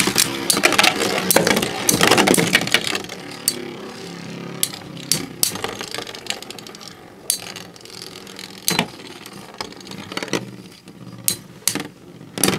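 Two metal Beyblade spinning tops, Omega Dragonis 105XF and Lightning L-Drago 100HF, battling in a plastic stadium. A loud rasping rush in the first couple of seconds is followed by the tops whirring and scraping, with sharp clacks each time they collide.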